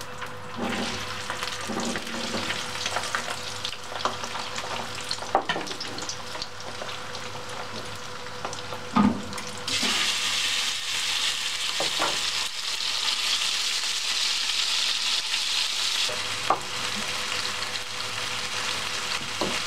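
Diced potatoes frying in hot oil in a frying pan, a steady sizzle with a few knocks against the pan. Just before ten seconds in, raw beef cubes are tipped into a second hot pan and a louder, brighter sizzle starts abruptly and keeps going.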